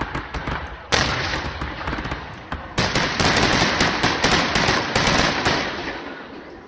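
Aerial fireworks exploding: two sharp booms, about a second in and near three seconds in, each followed by dense, rapid crackling like gunfire that slowly dies away.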